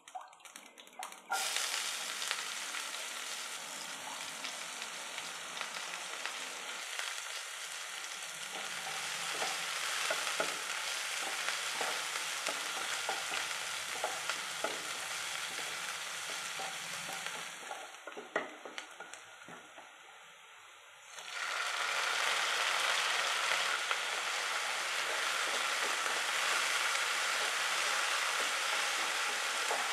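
Hot oil sizzling in a nonstick pan as urad dal, chopped onion, curry leaves and green chilli fry, with a wooden spatula stirring and scraping in scattered clicks. The sizzle drops for a few seconds, then comes back louder about twenty seconds in, with chopped tomato now frying in the pan.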